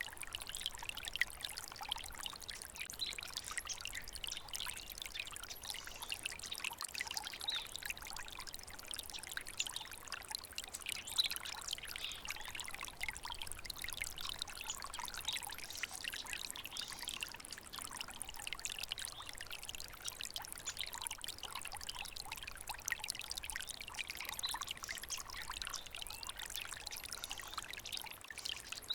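Small water stream trickling and babbling steadily, a constant bright splashing without breaks.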